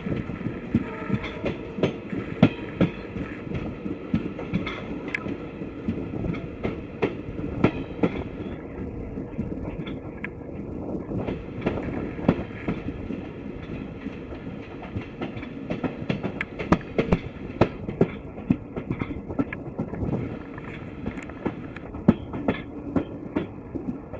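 Passenger train carriage running along the track: a steady rumble with frequent irregular clacks and knocks from the wheels on the rails.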